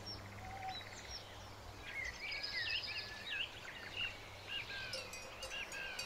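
Small birds chirping and twittering over a quiet outdoor background, the calls busiest from about two seconds in, with a few faint clicks near the end.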